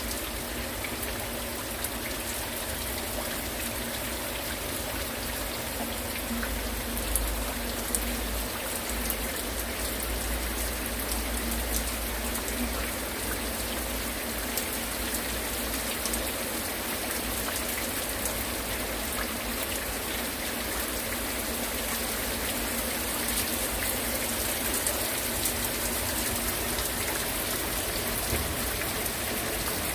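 Heavy rain falling steadily, many individual drops pattering on surfaces, with some low rumble partway through.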